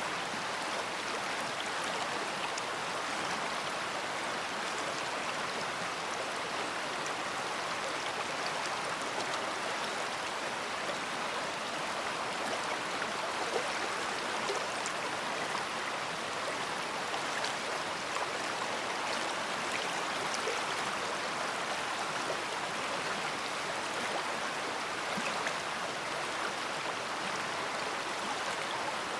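A big river flowing: a steady, unbroken rush of water with faint small splashes scattered through it.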